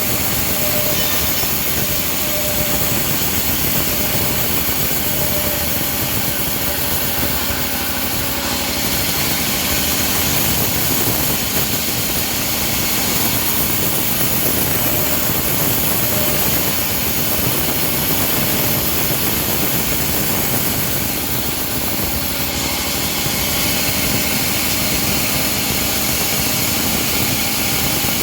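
Engine-driven homemade bandsaw mill running steadily as its blade saws through a teak log, with small shifts in the high cutting hiss now and then.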